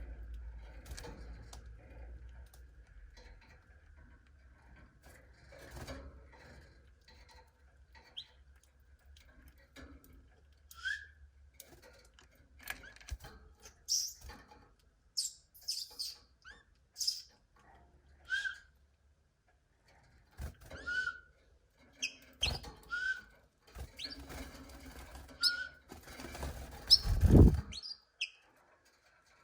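Domestic canaries giving short, separate chirps and call notes, some as brief rising notes, with scattered light clicks. A louder thump comes near the end.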